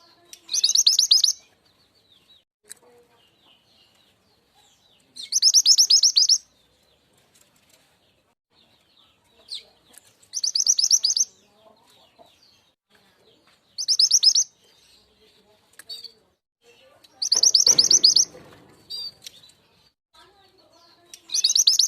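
Song of the burung mantenan gunung (truntung weru), played as a lure call: a loud, rapid high trill lasting about a second, repeated every four to five seconds, with faint short chips between the trills.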